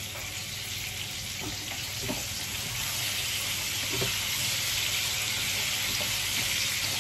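Potato slices frying in hot oil in a pan, a steady sizzle that grows a little louder after about three seconds. A wooden spatula stirring them gives a few soft knocks against the pan.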